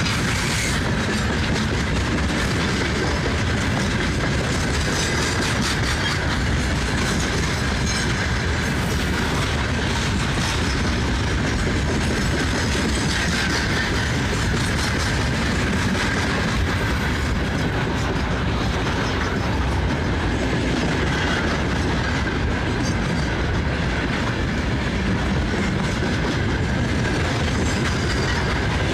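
Freight train wagons rolling past at a steady speed, their wheels clattering continuously over the rail joints.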